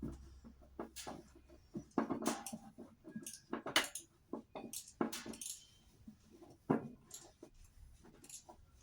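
Metal hand tools clinking and knocking together as a size-10 socket is picked out of a set and handled: a run of irregular short clinks.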